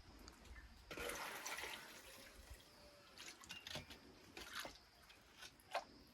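Faint water sounds: scattered drips and taps, with a short rush of splashing about a second in.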